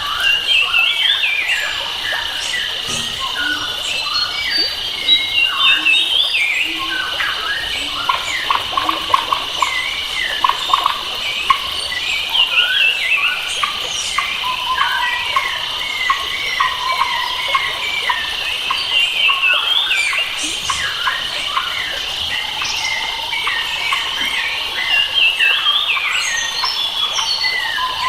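Forest ambience: a steady high drone of insects, with many birds singing over it in short chirping, up-and-down phrases.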